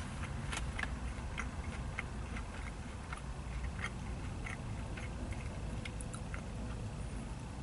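A person chewing breaded chicken fries dipped in barbecue sauce with the mouth closed, giving small irregular clicking, wet mouth sounds over a steady low background rumble.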